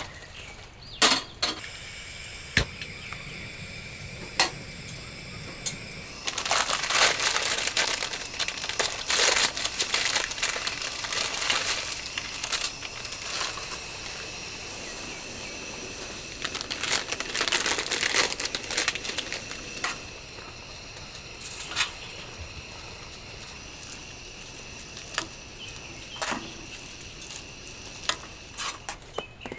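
Rustling and crinkling, with scattered clicks and small knocks, as of things being handled. It is busiest from about six to twenty seconds in and thinner after that.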